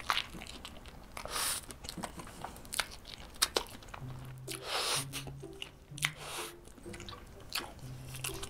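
Close-miked chewing of a soft bread sandwich filled with ham and egg: a bite near the start, then moist, irregular chewing and mouth clicks. Quiet background music with low notes comes in about halfway.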